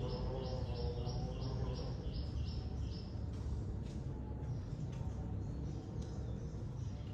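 A bird chirping: a quick, evenly spaced run of short high chirps, about three a second, that stops a little over three seconds in.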